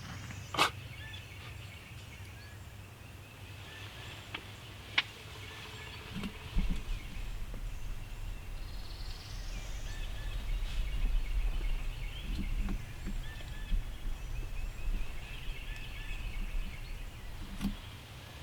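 Wild turkey gobbling amid songbird chirps, with two sharp clicks in the first five seconds and a low rumble through the second half.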